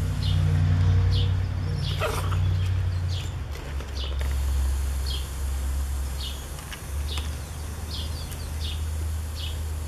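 A bird chirping repeatedly in short, high chirps roughly every half second, with one brief louder call about two seconds in, over a steady low rumble.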